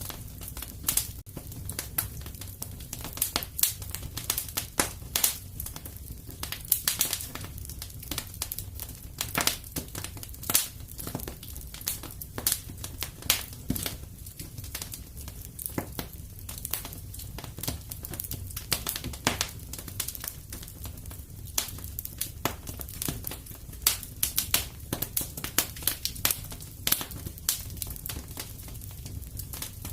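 Wood fire in a fireplace crackling, with sharp irregular pops and snaps several times a second over a steady low rumble.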